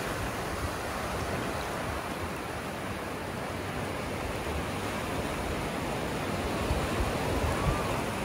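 Ocean surf washing steadily onto a sandy beach, a constant even rush of breaking waves.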